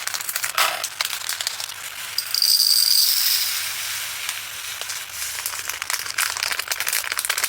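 Tiny resin diamond-painting drills rattling, a dense stream of small clicks as they are poured from a bag into a storage container, thickest about two to three seconds in.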